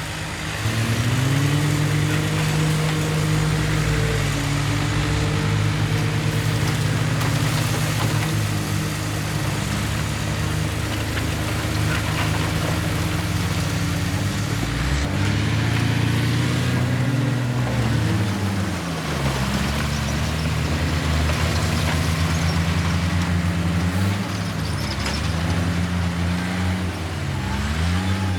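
Heavy diesel engine of earthmoving machinery running under changing load. Its pitch rises about a second in, holds, then sags and picks up again several times in the second half.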